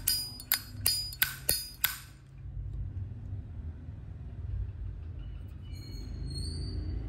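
Brass Zippo lighter lid clicking open and snapping shut over and over, a sharp metallic clink with a short ring roughly twice to three times a second, stopping about two seconds in; a faint low hum remains.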